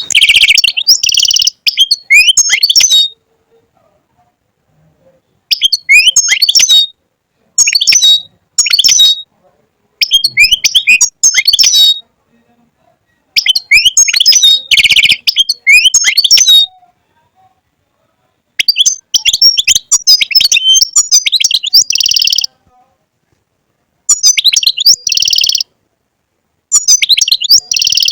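European goldfinch singing: loud, rapid twittering song in phrases of one to three seconds, about eight of them, broken by short pauses, with dense rolled notes inside several phrases.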